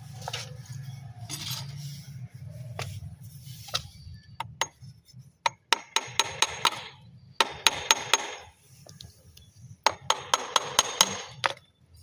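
Rapid hammer-like tapping on something hard, in three quick bursts of five or six strikes each, with a few single knocks between them. A low hum runs under the first few seconds.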